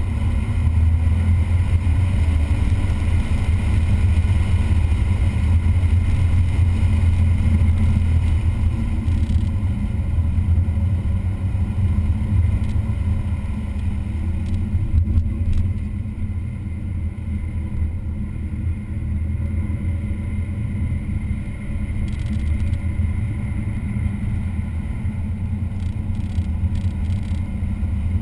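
Car engine running hard on a race track, a steady low drone that eases off briefly a couple of times past the middle.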